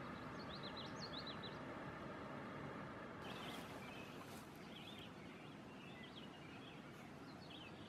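Faint birdsong: several small birds chirping and singing in short, quick phrases over a steady background hiss.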